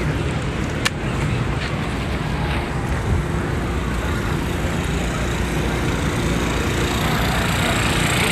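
Steady city street traffic noise, cars and engines blending into a continuous hum, with one sharp click about a second in.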